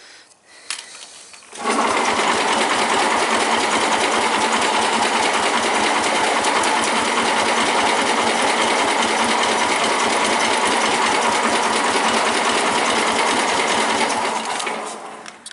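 Suburban 10 garden tractor's electric starter cranking the engine over fast and evenly for about thirteen seconds without it catching, then stopping near the end; the engine is flooded on a hard cold start.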